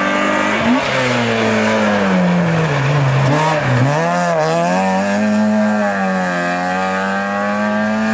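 Small racing hatchback's engine at high revs as the car passes through a slalom chicane: the revs drop as it brakes, a few quick throttle blips come about four seconds in, and the engine then pulls steadily as the car drives off.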